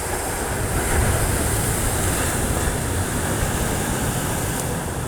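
Sea waves washing onto a rocky shore, a steady rushing surf that swells about a second in and slowly eases, with a low rumble underneath.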